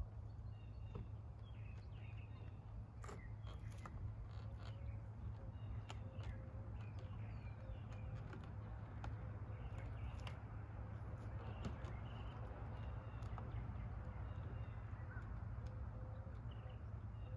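Birds calling over a steady low hum, with a few light clicks and taps as hands press a grille overlay onto a car's front grille.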